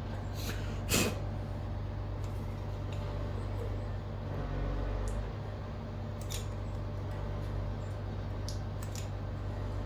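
A few sharp clicks and knocks from tools and materials being handled while sealing the sink with silicone. The loudest is about a second in, over a steady low hum.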